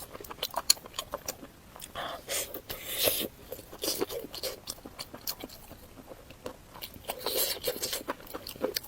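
Close-miked eating: chewing with many sharp wet mouth clicks and smacks, in short bursts.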